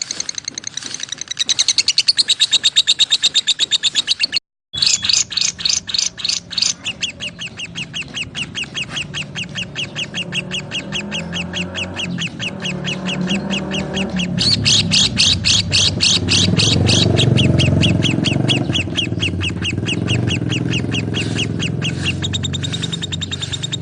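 Lovebirds chirping in a fast, steady run of sharp, high chirps, several a second, breaking off for a moment about four and a half seconds in before carrying on.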